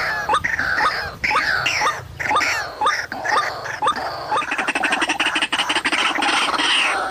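White-breasted waterhen calls, a rapid series of short repeated calls with quick pitch sweeps, changing about halfway through into a fast rattling churr.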